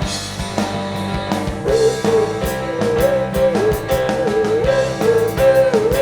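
Rock band playing live through an instrumental passage, with drums keeping a steady beat under sustained chords. About a second and a half in, a wavering melody line comes in over the top.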